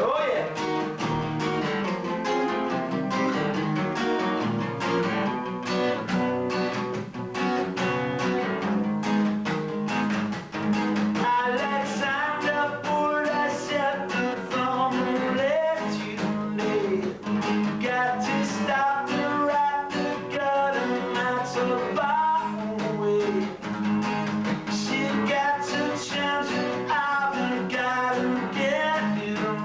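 Rehearsal music: strummed acoustic guitar playing a song, with a bending melody line over it from about ten seconds in, recorded through a basic camcorder microphone.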